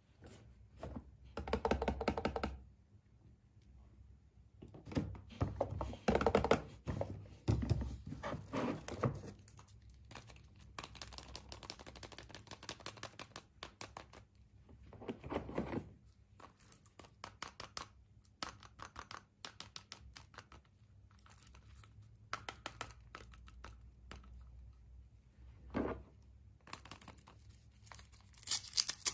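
Wrapping and packaging being handled and unwrapped by hand: crinkling and tearing with quick clicks and a few knocks, in bursts that come and go.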